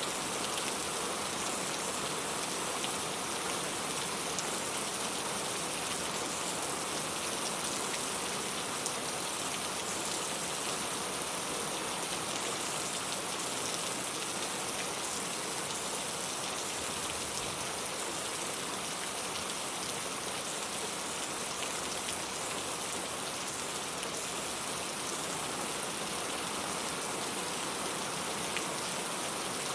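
Steady rainfall: an even hiss of rain pattering on a surface, with fine individual drop ticks and no change in intensity.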